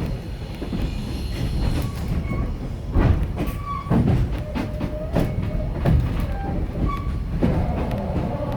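Railroad passenger coach rolling along the track: a steady low rumble with sharp knocks of the wheels over rail joints about once a second, and brief faint wheel squeals.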